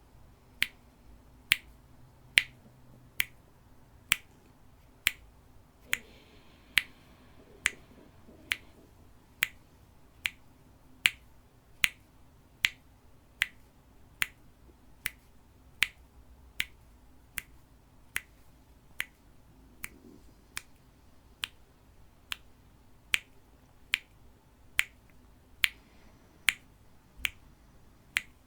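Metronome ticking steadily, about one sharp tick every 0.8 seconds, keeping the count for breathing rounds.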